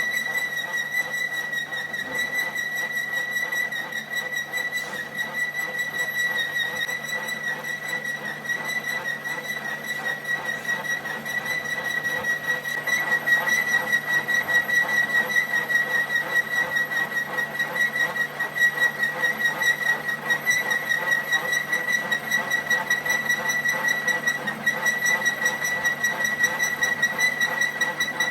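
A steady high-pitched whine holding one pitch with overtones, with a fast flutter in level, growing a little louder about twelve seconds in.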